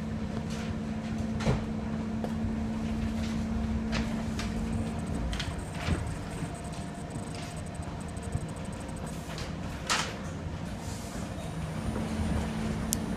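Passenger train running, heard from inside the carriage: a steady rumble with a low hum that drops out about five seconds in and returns near the end. Short knocks and rattles cut through now and then, the loudest about a second and a half in and near ten seconds.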